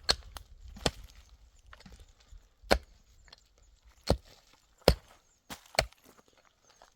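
A series of about seven sharp knocks at irregular intervals, roughly one every second, some much louder than others.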